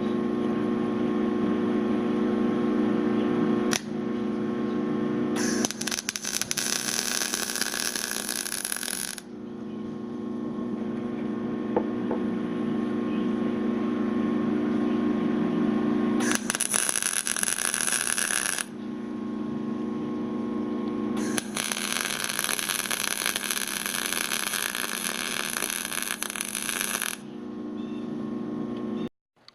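Electric welder humming steadily, with three runs of arc welding on the steel crucible: crackling, sizzling bursts of a few seconds each, the last the longest.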